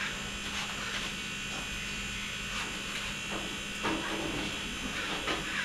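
A steady electric buzz, like a small motor running, with a handful of faint short chirps and clicks over it.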